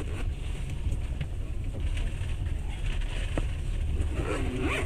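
Moving passenger train heard from inside the carriage: a steady low rumble with a few sharp clicks. Near the end a voice starts up.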